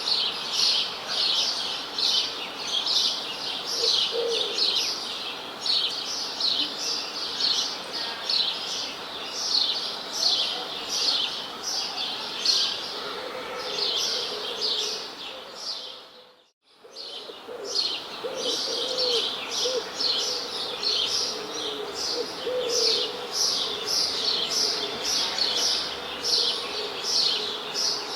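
A chorus of small birds chirping rapidly and continuously, with a few lower calls mixed in. About sixteen seconds in the sound fades almost to nothing for a moment, then the chirping comes straight back.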